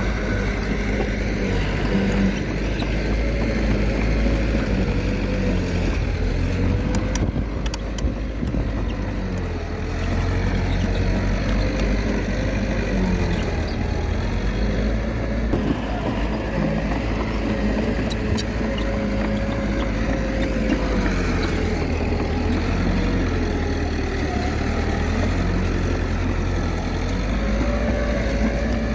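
Diesel engine of a Komatsu D21A mini bulldozer running under working load, its pitch rising and falling gently as the load changes.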